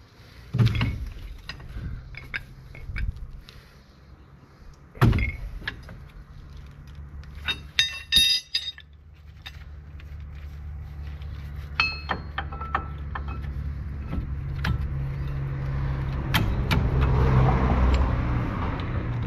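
A motor vehicle engine running with a steady low hum that grows louder near the end, over scattered metal knocks and clicks of workshop tools, with a ringing metal clink about eight seconds in.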